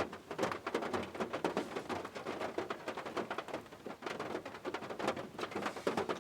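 Rain falling, a dense irregular patter of drops.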